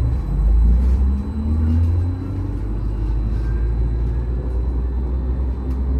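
Interior of a VMZ Avangard trolleybus under way, a steady low rumble with the electric traction drive's whine rising slowly in pitch over the first couple of seconds as the trolleybus gathers speed.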